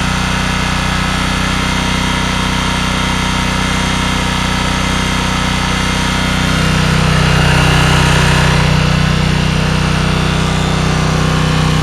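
Small gasoline engine idling steadily after a cold start. It gets louder about six and a half seconds in, then eases back a little after about nine seconds.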